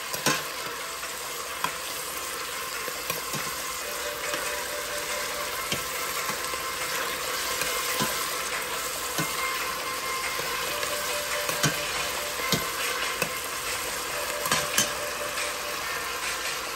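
Sliced onions and mushrooms sizzling in oil in a stainless steel pot as they are sautéed until translucent. A metal spoon stirring them clicks against the pot now and then.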